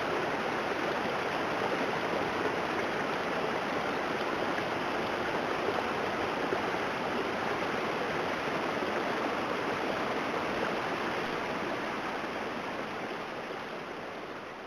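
Floodwater running as a steady rush, like a swollen stream, fading out near the end.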